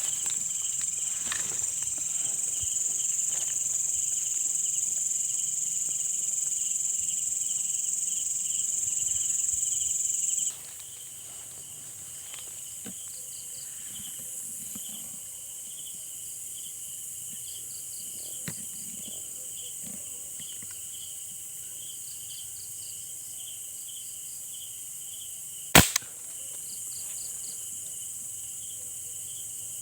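Night chorus of crickets and other insects: a loud, high, steady buzz that cuts off suddenly about a third of the way in, over a pulsing trill and intermittent chirps that go on throughout. One sharp crack rings out near the end.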